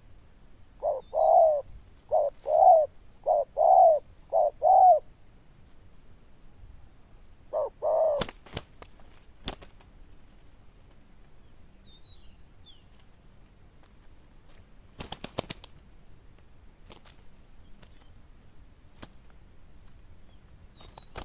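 Spotted dove cooing loudly: four quick two-note coo phrases, then one more after a short pause. Scattered sharp clicks and taps follow, loudest in a brief cluster later on.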